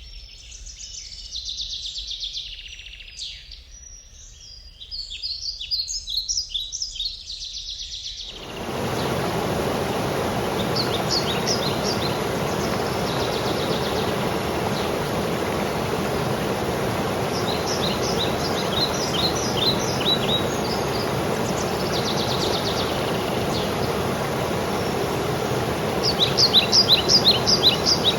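Small birds chirping and singing. About eight seconds in, the steady rush of a waterfall cuts in abruptly and holds, with quick runs of bird chirps heard over it.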